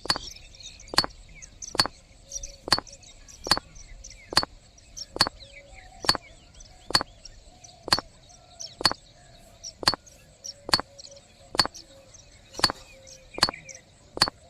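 Sharp clicks or knocks repeating very evenly, a little more than one a second, over faint high chirping like birds or insects.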